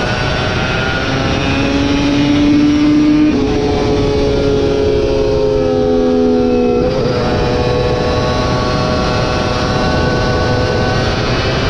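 Superbike racing motorcycle engine at high revs, its pitch climbing, then stepping and sliding down over a few seconds, then climbing again about seven seconds in.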